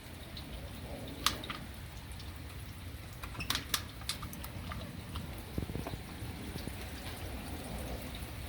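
Rain dripping, with a low steady wash and a few sharp, separate drips or ticks, the loudest about a second in and a cluster around three and a half seconds in.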